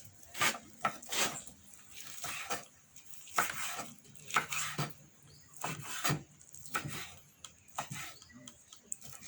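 Irregular clinks, knocks and scrapes of cooking pots and utensils being handled.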